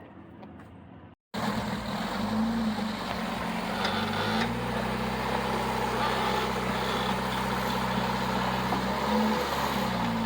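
Off-road vehicle's engine running steadily under a light throttle, its pitch rising and falling slightly as the driver works the rig over a rock it is hung up on. The sound cuts out briefly about a second in, then comes back loud.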